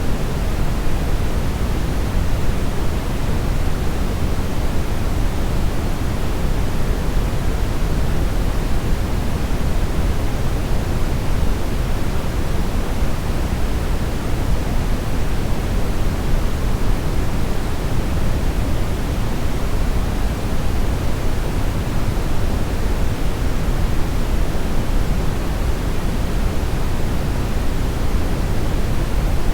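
Steady brown-ish noise: a continuous, even hiss heavy in the low end, with no events.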